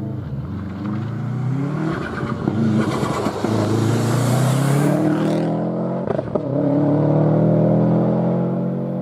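Four-wheel-drive rally car accelerating hard, its engine pitch climbing steadily. There is a brief break with a sharp click about six seconds in, like a gearchange, after which the engine holds high revs as the car goes by.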